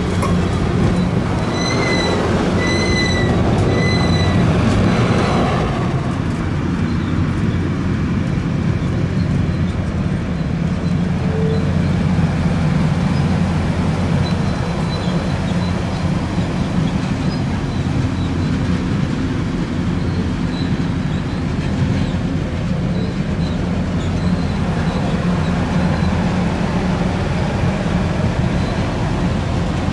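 Passenger train cars rolling past close by: a steady rumble of wheels on the rails, with a few short, high-pitched squeals in the first few seconds.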